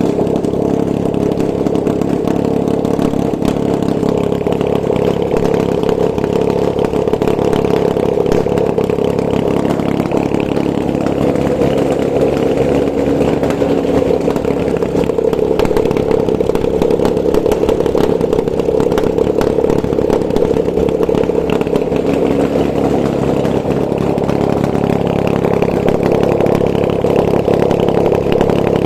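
Nissan VQ20DE 2.0-litre V6 engine running steadily at idle on a test stand, being checked before sale as a used engine.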